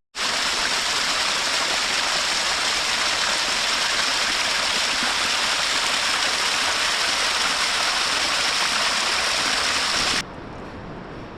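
Fast-flowing mountain stream water rushing, a steady close-up hiss that cuts in suddenly at the start and cuts off abruptly near the end.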